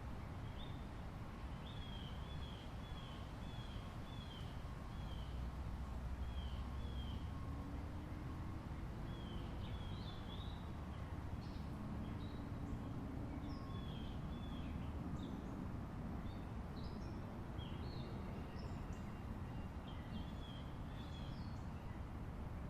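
Small birds chirping, short repeated calls that grow busier in the second half, over a steady low background rumble, with a faint low drone in the middle.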